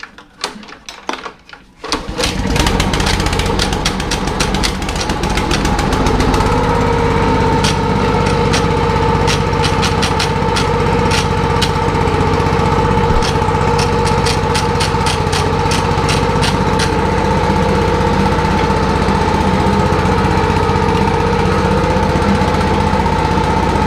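Small gas engine on a ride-on spreader sprayer, pull-started on choke. It catches about two seconds in and then runs steadily, settling at a slightly higher speed a few seconds later.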